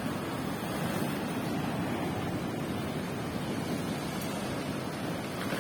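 Sea surf washing onto the shore in a steady, unbroken rush.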